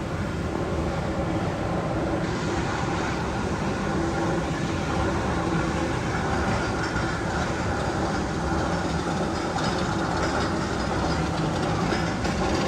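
Magnum XL-200 tunnel sound effect: a steady train-like rumble and clatter that holds an even level throughout.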